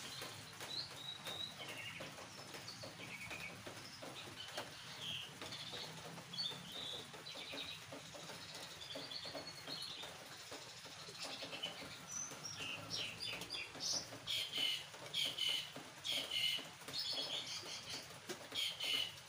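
Small birds chirping and twittering, with a busier run of quick repeated chirps in the second half.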